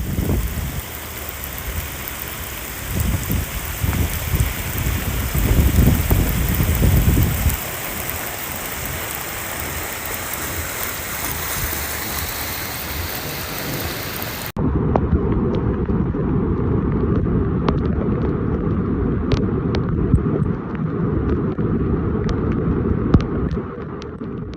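Heavy rain pouring steadily as a dense hiss, with low gusts of wind buffeting the microphone a few seconds in. About halfway through, an abrupt cut to another recording of the downpour that is heavier in the low rumble, with scattered clicks and taps.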